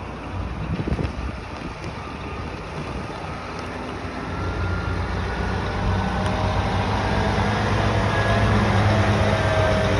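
Scania P360 truck's 12.7-litre six-cylinder diesel engine running; about four seconds in its note builds and it gets steadily louder.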